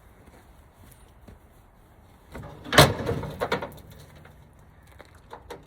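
A truck's hydraulic liftgate being released to lower: a loud metal clank about three seconds in, then a second of rattling over a low steady hum, and a few light clicks near the end.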